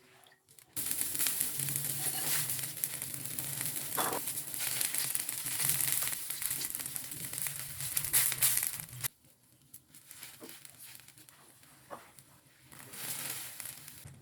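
Food frying in hot oil in a pan: a dense sizzling crackle that starts abruptly about a second in and cuts off suddenly about nine seconds in, followed by quieter kitchen sounds.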